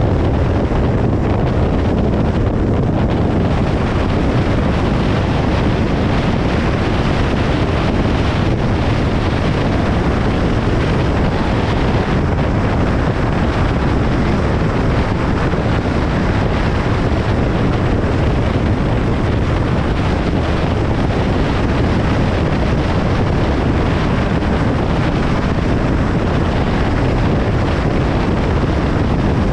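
Steady road noise of a car driving on a motorway: an even, unchanging rumble of tyres and rushing air.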